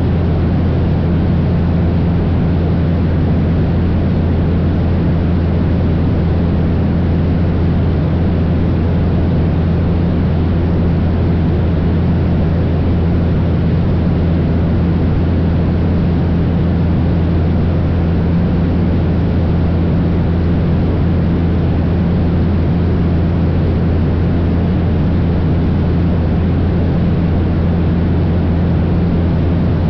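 Cessna 172's piston engine and propeller running in steady cruise, a constant low drone with no change in pitch or level.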